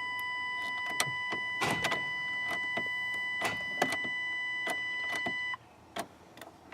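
A pickup truck's electrical system with a dead battery as the key is turned: a steady, high electronic warning tone holds for about five and a half seconds, then cuts off, with scattered sharp clicks from the ignition and starter circuit. The engine does not crank.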